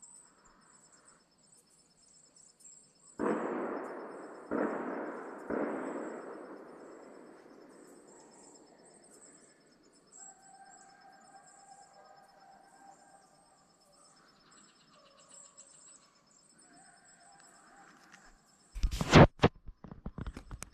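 Three gunshots in quick succession, about a second apart, each echoing away over several seconds. Faint long howls of hounds follow, then a loud close burst of noise near the end.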